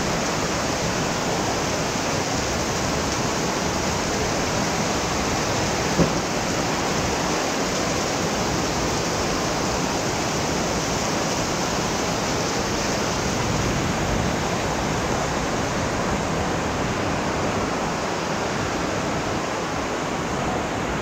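Heavy tropical rain pouring down, a steady dense hiss without let-up. A single brief tap sounds about six seconds in.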